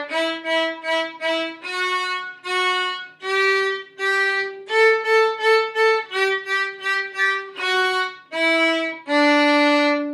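A violin plays a short bowed exercise melody of quick groups of four short notes and pairs of longer ones. It steps up from the open D string through E, F sharp, G and A and back down, ending on a long held open D.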